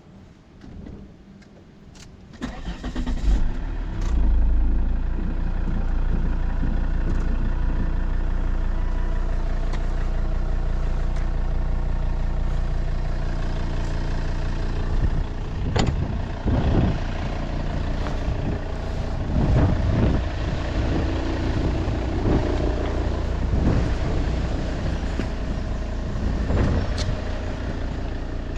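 A car engine starts about two seconds in, after a few clicks, and then idles steadily. Occasional knocks and clunks sound over the idle.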